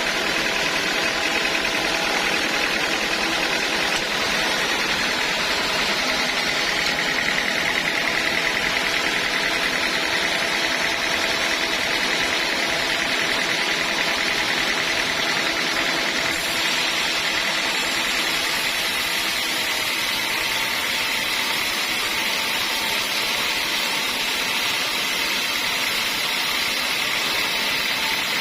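Sawmill machinery running steadily while teak logs are sawn: a continuous mechanical noise with a steady high tone that holds throughout.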